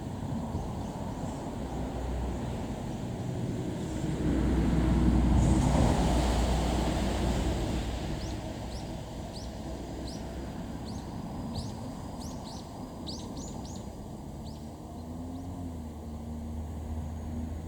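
KiHa 110 series diesel railcar running, its engine noise swelling to a peak about five seconds in and then easing off. Birds chirp repeatedly in the second half.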